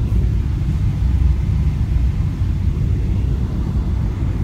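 Steady low rumble of a Boeing 777 airliner landing.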